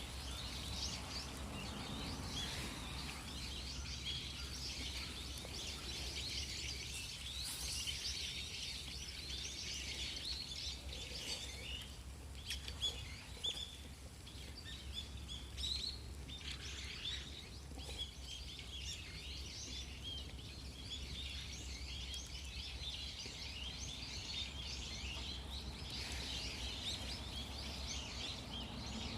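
Birds chirping continuously over a steady low rumble, with a few brief pops.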